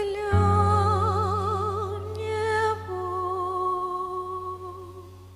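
A women's choir holds the song's closing notes with a light vibrato over a sustained low accompaniment. The chord shifts once partway through, and the music then fades away.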